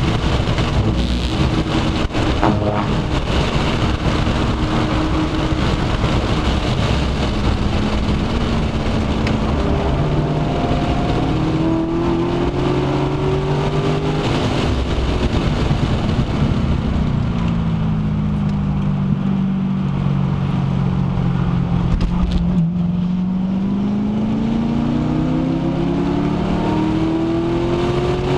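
Chevrolet Corvette C6 Z06's 7.0-litre LS7 V8 at full track pace, heard from inside the cabin with wind and road noise. The engine note climbs under acceleration, falls away for several seconds past the middle as the driver lifts, then rises again near the end.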